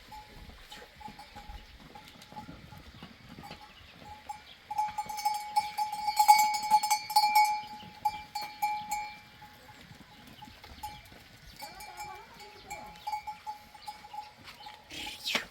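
Livestock bells ringing and clinking irregularly as the animals move, loudest for a few seconds in the middle. A brief loud noise comes just before the end.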